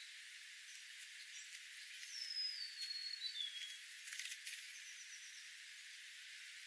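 A wild bird calling: one whistled phrase about two seconds in that falls in steps from high to lower pitch and lasts about a second and a half. A few faint high chirps and short clicks follow, over a steady hiss.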